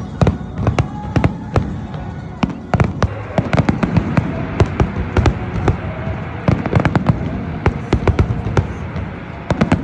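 Fireworks display: a dense, irregular run of sharp bangs and crackles over a continuous low rumble.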